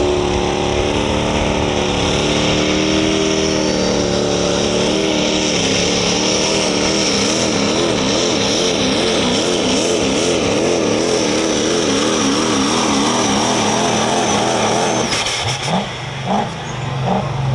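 A super stock diesel pulling truck's engine running hard under load, with a high whine over it. From about four seconds in, the engine pitch wavers quickly up and down, and near the end the engine drops away suddenly.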